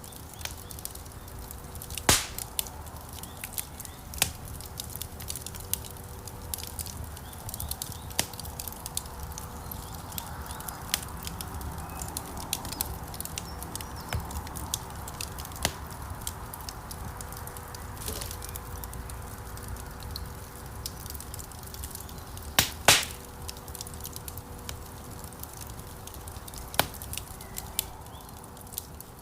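Wood fire burning in a fireplace: steady crackling with sharp pops over a low rumble of flames. The loudest pops come about two seconds in and as a double pop a little after the middle.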